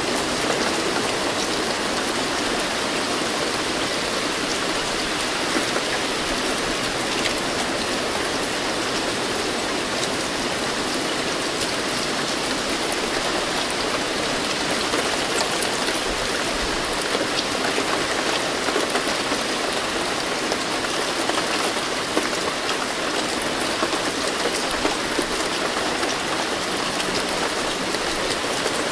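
Steady rain falling, an even hiss with many small drop patters on a surface.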